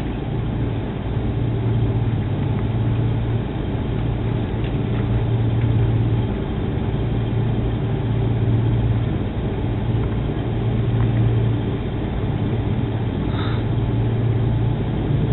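Airliner engines running steadily, heard from inside the cabin: a low hum over a steady rush of noise, swelling and easing every second or two.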